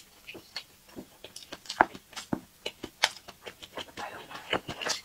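Close-up chewing of a bun with a salted egg yolk filling: irregular wet mouth clicks and smacks, a few every second.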